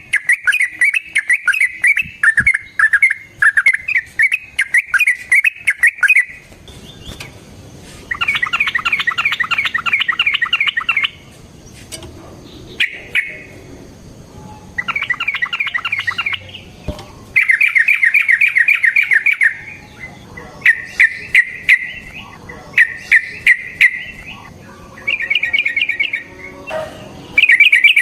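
Yellow-vented bulbul (trucukan) singing long rapid runs of repeated bubbling notes: one unbroken run for about the first six seconds, then a string of shorter bursts of one to three seconds with brief pauses between them.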